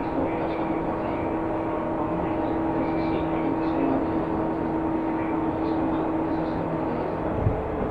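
Seibu New 2000 series electric train running at a steady speed, heard from inside the car: a continuous rumble of wheels on rail with steady humming tones from the traction equipment, and a single low thump near the end.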